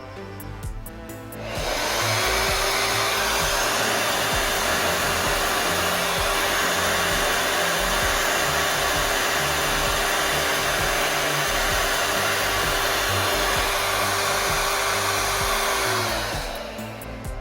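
Hair dryer switched on about a second and a half in: its motor whine rises to a steady pitch under a loud rush of air, runs for about fourteen seconds, then winds down as it is switched off. The dryer is running normally after a faulty part was replaced.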